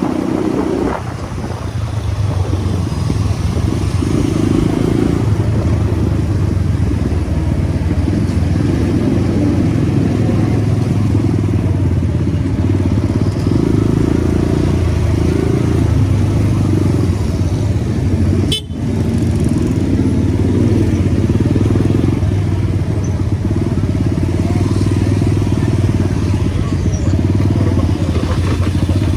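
Motorcycle engine running under way, heard from the rider's camera, with road and wind noise. The sound dips for a moment about two thirds of the way through.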